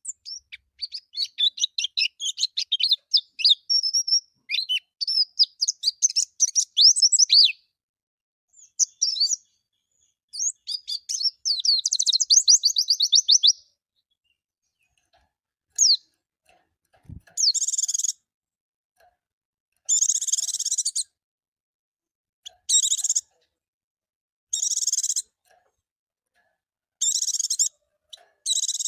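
White-eye (pleci) singing: a fast, high, varied twittering song with quick trilled runs, then after a pause a series of short harsh buzzy bursts repeated every two to three seconds.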